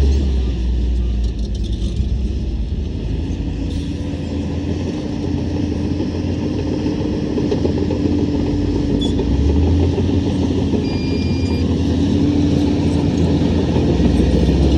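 Heavy diesel earthmoving machinery running: a loud, continuous low engine rumble, with a steady droning tone that comes in about three seconds in and fades near the end.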